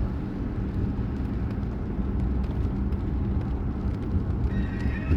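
Car cabin noise while driving: a steady low rumble of engine and road with a constant low hum. Near the end a high wavering pitched sound comes in.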